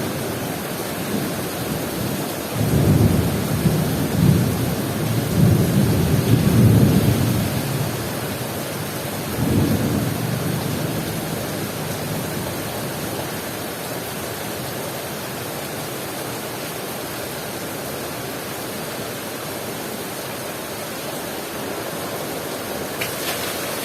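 Heavy rain falling steadily, with a long roll of thunder rumbling from about two seconds in until about eight seconds and a shorter rumble near ten seconds; after that only the rain is heard.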